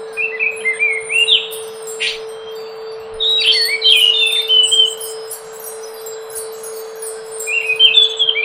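Scaly thrush (anis macan) singing clear, fluty warbled phrases in short bouts, a pause between them, and a new phrase starting near the end, over a steady low hum.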